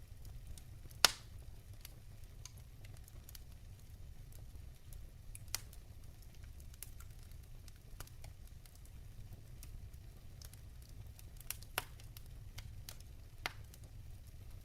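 Logs burning in a fireplace, crackling over a low steady rumble, with scattered sharp pops: a loud one about a second in and a few more in the second half.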